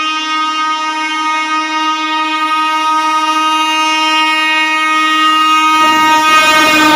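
Indian Railways locomotive horn held in one long, steady blast, with the rumble of the approaching train rising under it near the end.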